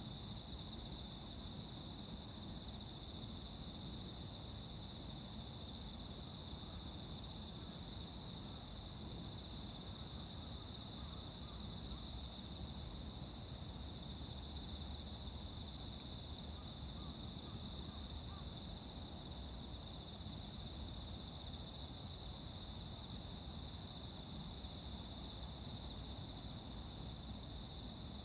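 Insects singing in chorus: a continuous high-pitched trill at two steady pitches. For the first third a further chirp pulses about one and a half times a second, then stops. A low steady rumble runs underneath.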